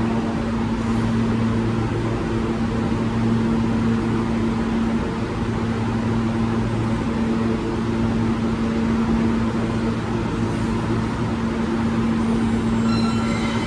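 Steady mechanical hum on a New York subway platform, with low level tones over a background rush. Near the end, higher whining tones begin as an L train approaches.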